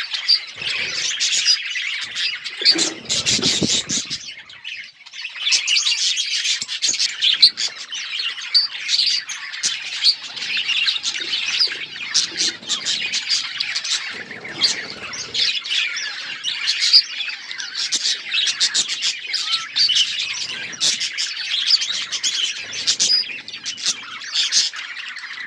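A flock of budgerigars chirping and chattering together in a dense, continuous warble of quick high chirps and squawks. It thins out briefly about four seconds in.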